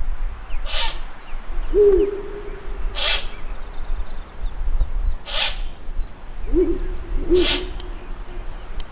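Ural owl hooting: a deep, steady hoot about two seconds in, then a broken run of two or three hoots around seven seconds. Harsh, hoarse calls recur about every two seconds, with faint high chirps from small birds behind.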